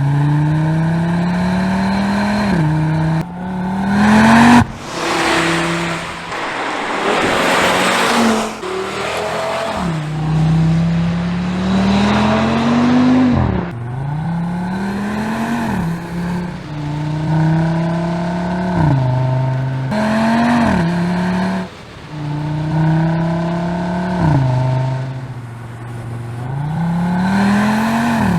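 Audi RS3's 2.5-litre turbocharged five-cylinder under hard acceleration, its note climbing through the revs and dropping sharply at each upshift of the dual-clutch gearbox, over and over. A stretch of loud rushing noise comes about a quarter of the way in.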